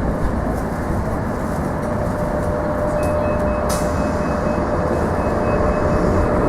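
Sheffield Supertram tram running through the stop, a steady rumble of wheels and motor with a humming tone. About halfway through, a rapid series of high beeps starts and keeps going.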